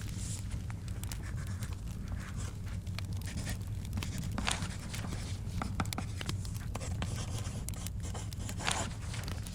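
Wood fire crackling in a fireplace, with a steady low rumble and frequent sharp pops. Over it a book's pages are turned, each a brief papery swish: near the start, about four and a half seconds in, and near the end.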